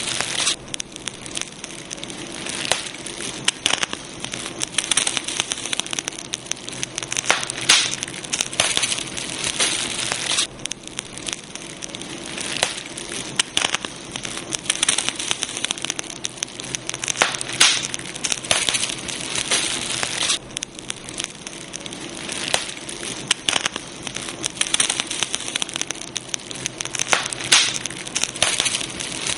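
Campfire burning, wood crackling and popping in dense irregular snaps over a steady hiss.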